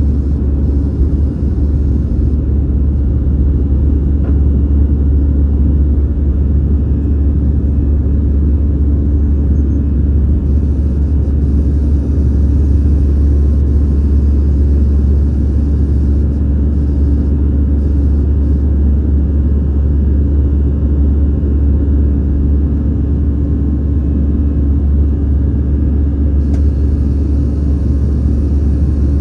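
Airbus A319 jet engines and airflow during takeoff, heard as a loud, steady low rumble with a constant hum above it.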